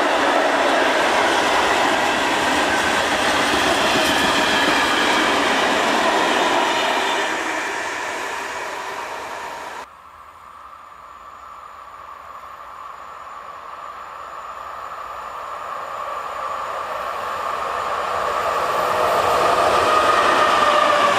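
Open coal wagons of a freight train rolling past on the rails, fading over a few seconds and cutting off abruptly about halfway through. Then an EP09 electric locomotive hauling passenger coaches approaches, growing steadily louder until it passes near the end.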